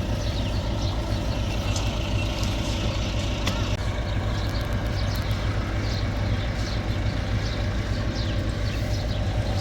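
A heavy engine running steadily at constant speed, driving the concreting machinery, with faint clicks and rattles over it.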